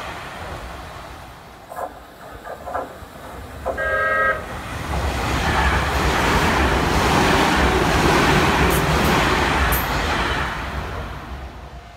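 A Keio electric commuter train gives a short horn blast about four seconds in, after a few sharp clicks. It then passes close by, its running and wheel noise loud for several seconds before fading near the end.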